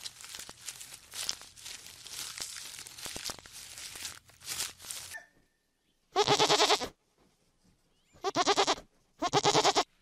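Faint crackling and snapping of a giraffe stripping leaves from a thorny acacia branch. After a short silence, a flock of sheep bleats three times, loud and wavering, in the second half.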